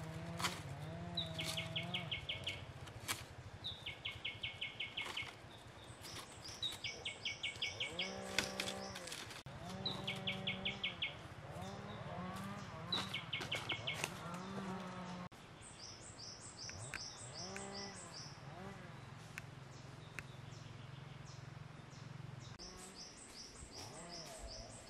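Songbirds singing: one repeats a short, rapid trill every two to three seconds, and another gives quick runs of high chirps. Under them run low, drawn-out calls.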